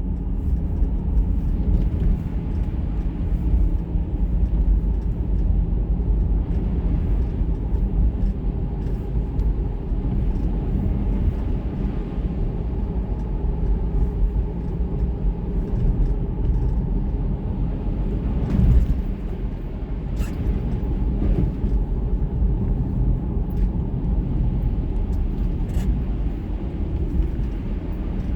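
A car's steady low rumble of engine and road noise, heard from inside the car, with a few faint clicks.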